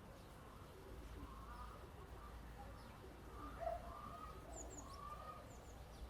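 Faint bird calls: several soft, drawn-out calls and a few thin high chirps, over a low background rumble.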